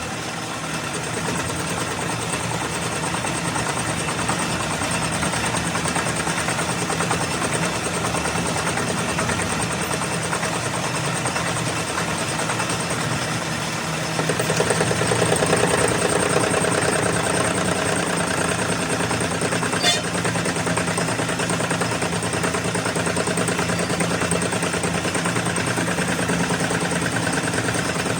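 An engine running steadily with a fast, even pulse. It grows louder for a few seconds about halfway through, and a single short click comes about two-thirds of the way in.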